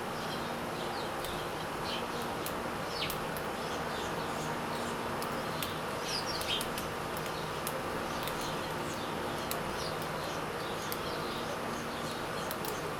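Small birds chirping in short, scattered high calls over a steady buzzing hum.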